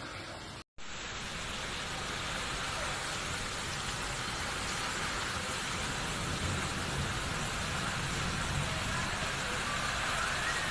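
Steady rushing noise of water, like heavy rain pouring down, starting after a brief cut near the start and slowly growing louder.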